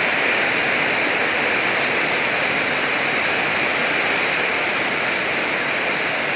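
Heavy rain pouring down during a storm, a steady, unbroken hiss.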